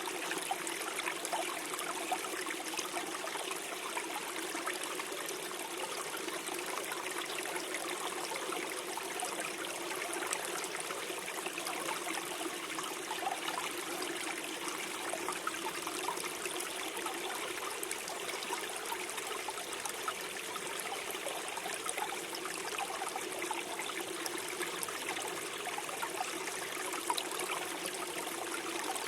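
Small forest stream flowing over stones, a steady babble and trickle of water.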